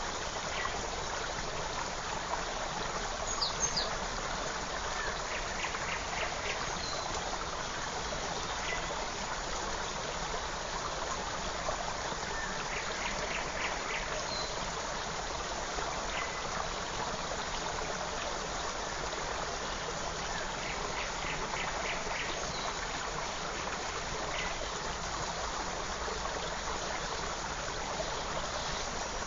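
Steady rush and trickle of a forest stream. Above it a small bird calls now and then, with a short run of quick repeated notes about every seven seconds and a few single higher chirps.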